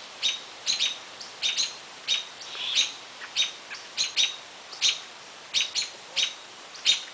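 Repeated short, sharp, high-pitched bird calls, often in quick pairs, about two or three a second. They are taken on the spot for a great horned owlet crying to be fed.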